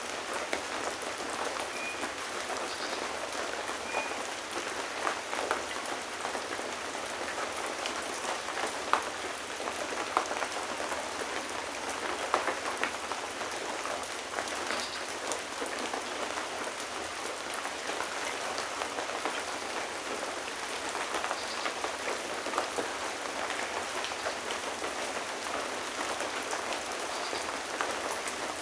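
Steady rain falling, with individual raindrops heard close and a few louder drips standing out now and then.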